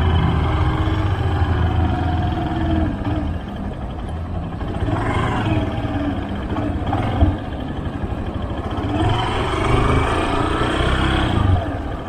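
Motorcycle engine running at low speed, its pitch rising and falling gently with small throttle changes through a slow, tight turn.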